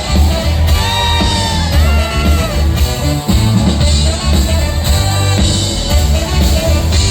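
Live rock band playing over a steady bass pulse, with gliding sung vocal lines about a second in.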